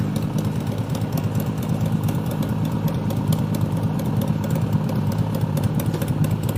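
Motorcycle engine idling steadily, a low even running sound with no revving.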